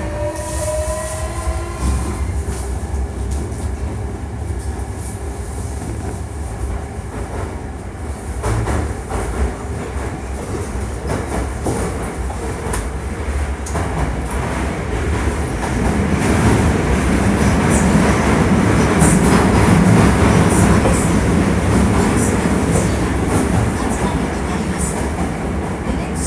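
Hankyu 1300 series electric train under way: the Toyo IGBT inverter's motor whine climbs in pitch as it accelerates and fades out about two seconds in. Then come steady running rumble and rail-joint clatter, which grow louder in the second half.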